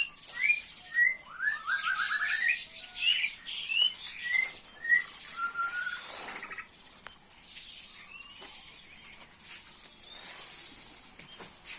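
Small songbirds chirping: a busy run of short rising calls and a quick string of notes in the first half, thinning out to occasional chirps after about six seconds.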